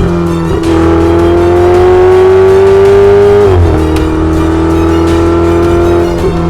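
Ferrari 488 Spider's twin-turbo 3.9-litre V8 accelerating. The engine note climbs steadily, drops sharply about three and a half seconds in at a gear change, then climbs again, with music underneath.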